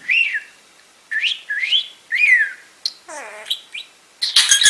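Pet budgerigar chirping and chattering: a quick string of short whistled chirps that swoop up and down, a lower scratchy sliding call about three seconds in, and a harsh, busier burst near the end.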